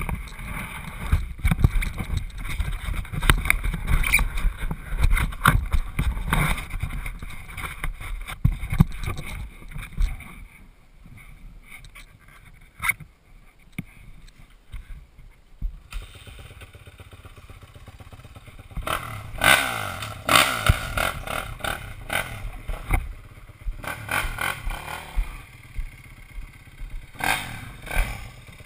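Motocross bike running over a dirt track, heard from an onboard camera: the engine rises and falls with the throttle over a low rumble, with frequent knocks and rattles from the bumps. It drops quieter for several seconds about a third of the way in, then comes back with repeated revving bursts.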